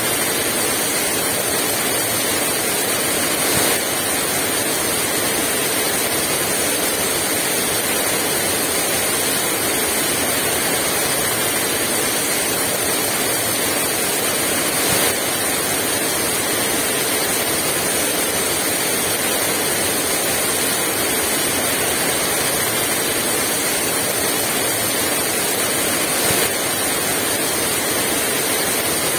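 Heavy rain pouring steadily with no wind, a dense even hiss with three slight brief swells.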